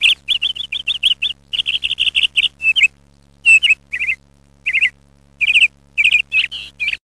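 Small songbird chirping: quick runs of short, high chirps in bursts with brief pauses between, cutting off abruptly near the end.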